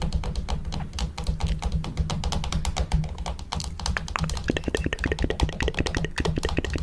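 Fingernails tapping rapidly on a camera: a quick, continuous run of sharp clicks, around ten a second, over a low steady hum.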